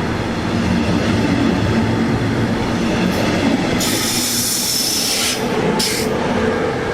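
A train running on the tracks, loud and steady throughout. About four seconds in, a high hiss with a thin high tone joins, breaks off briefly around six seconds, then returns.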